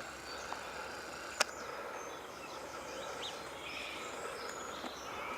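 Quiet countryside ambience: faint small-bird chirps over a steady background hiss, with a single sharp click about a second and a half in.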